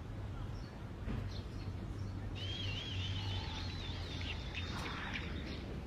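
A bird singing a wavering, warbling call for about three seconds, starting about two seconds in, over a low steady background hum.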